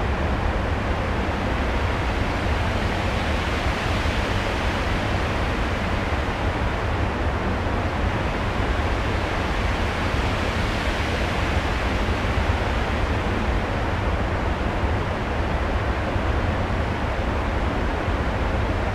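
Steady rushing noise like wind or surf, with a deep rumble underneath and no tune or beat: a storm-like noise soundscape.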